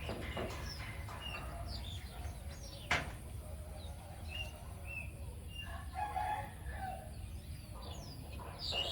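Scattered bird chirps over a steady low hum, with a sharp click about three seconds in and a drawn-out animal call about six seconds in.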